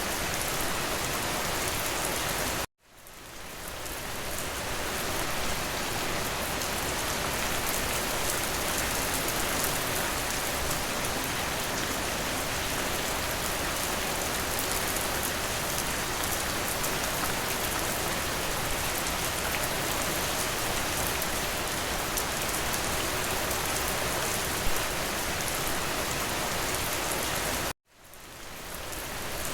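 Steady, even rain falling on a hard surface. It cuts out abruptly about three seconds in and again near the end, each time fading back in over about a second, with one brief sharp drop sound shortly before the second cut.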